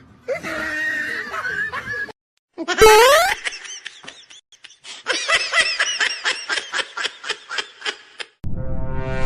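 A loud rising whistle-like glide about three seconds in, followed by several seconds of rapid, high-pitched laughter.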